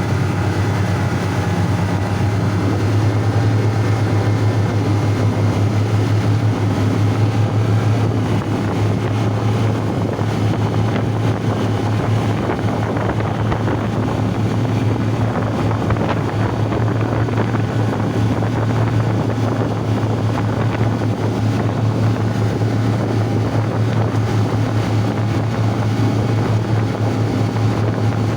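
Ship's engine running with a steady low drone, mixed with wind on the microphone.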